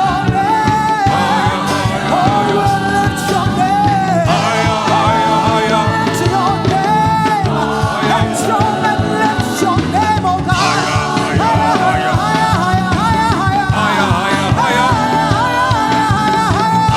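Live gospel praise-and-worship music: a band playing under a sung melody line.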